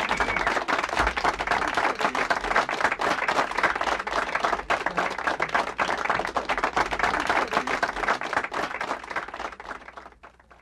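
A crowd applauding: dense, many-handed clapping that fades out near the end.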